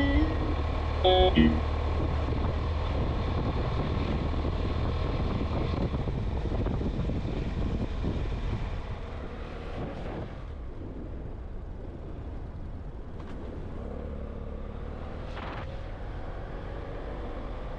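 Steady low rumble of a vehicle driving along a road, engine and tyre noise, easing off a little about halfway through. A short plucked guitar phrase sounds about a second in.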